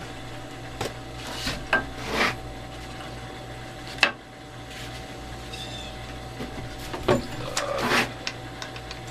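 Scattered light clicks and knocks of wooden parts and screws being handled and set in place, with one sharp click about four seconds in, over a steady low hum.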